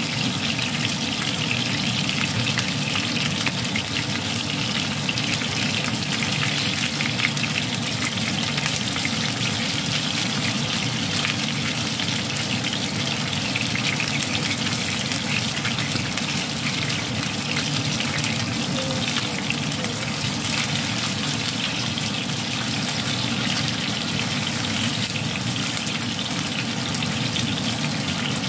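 Cornstarch-coated chicken wings sizzling steadily as they shallow-fry in hot oil in a nonstick pan.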